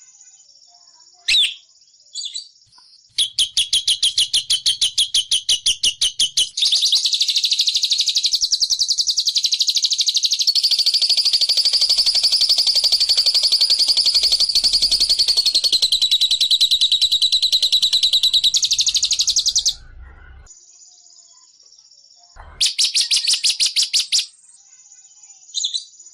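Recorded songbird calls played as a trapping lure: bursts of very fast, high-pitched trilling, with one long unbroken trill lasting about thirteen seconds in the middle and short buzzy notes in the pauses.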